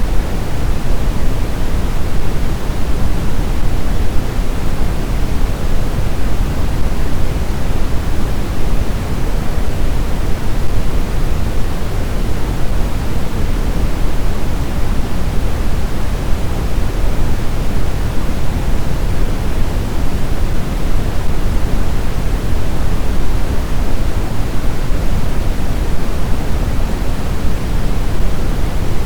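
Steady blizzard wind, a dense, even rush heaviest in the low end, with no distinct gusts or howls.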